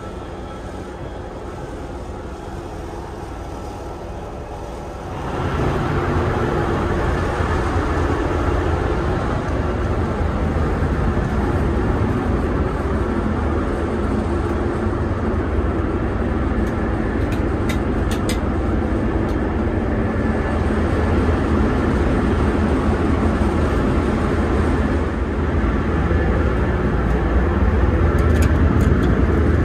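A Vectron-hauled IC1 regional train running with a steady rumble and rush. The sound steps suddenly louder about five seconds in and stays that way.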